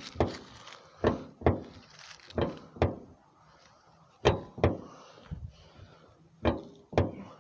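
Repeated pairs of sharp metal thunks from a 2005 Kia Rio's hood being worked on its stuck latch, four pairs about half a second apart with short pauses between.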